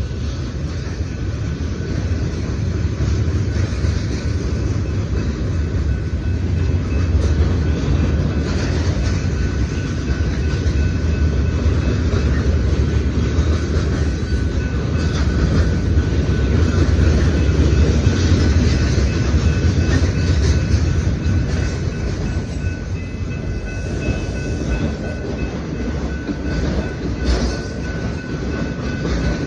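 A train's cars rolling past close by: a steady, heavy rumble of steel wheels on the rails that swells in the middle and eases slightly near the end.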